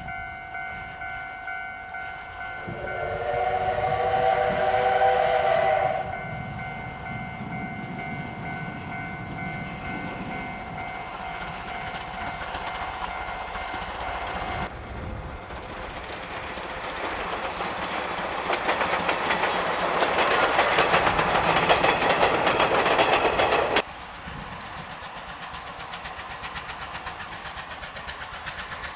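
Steam locomotive C12 66 sounds its steam whistle in one chord-like blast lasting about three seconds, over the steady pulsing ring of a level crossing signal. The locomotive then approaches working steam, its exhaust growing louder until it cuts off suddenly a few seconds before the end, leaving a quieter rumble.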